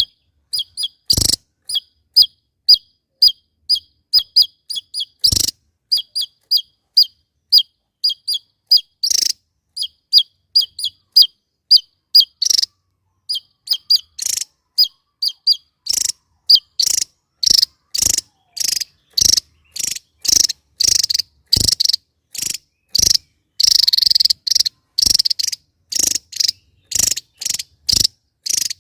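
Javan tesia calling: a long series of short, sharp, high notes, about two a second, that turn louder and harsher from about halfway through.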